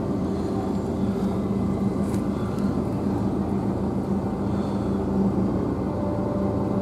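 Construction-site machinery engine running steadily, a constant low hum over a rumbling noise.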